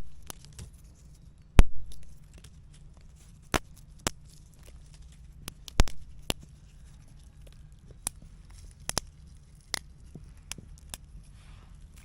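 Scattered sharp snaps and knocks of sticks and small stones being handled and dug in while a small campfire spot is prepared, the loudest about a second and a half in and again about six seconds in, over a faint low rumble.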